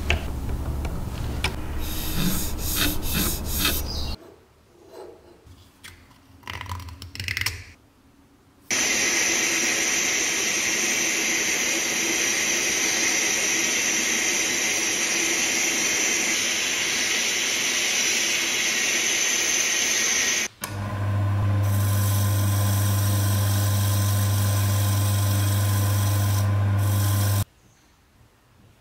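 Workshop tool sounds in several short edited clips: a tool running with a low motor hum, a few seconds of quiet handling noises, a long steady scraping or sanding noise, then an electric motor running steadily with a strong low hum.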